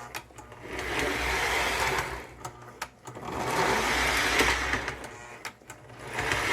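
Lionel 6-8564 O-gauge toy locomotive's electric motor and gears running on track in spells of about one and a half to two seconds, stopping three times in between with sharp clicks as the power is cut and the freshly repaired E-unit reversing unit cycles.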